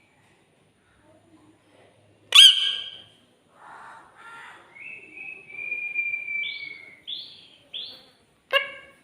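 Pet parrot calling and whistling: a loud, sharp squawk about two seconds in, some mumbled speech-like sounds, then a long level whistle followed by three short higher whistle notes and another sharp call near the end.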